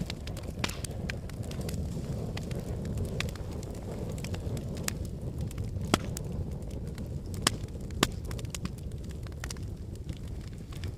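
Log fire burning in a fireplace: a steady low rumble of flame with constant crackling, and a few sharp, louder pops in the middle.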